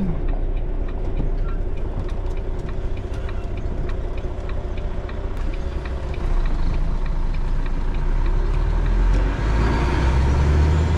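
Lorry's diesel engine running, heard from inside the cab as it drives off, a low rumble with faint regular clicks. The engine gets louder about six seconds in and again near the end.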